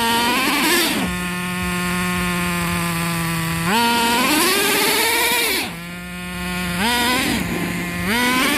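Traxxas R/C truck's small nitro engine idling steadily and revved up four times: briefly at the start, a longer rev near the middle that drops away sharply, then two short blips near the end.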